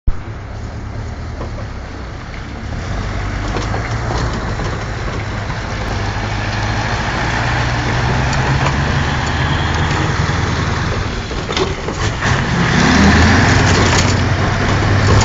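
Scania 143H 450's V8 diesel truck engine running steadily. It grows louder about two seconds in and again about twelve seconds in.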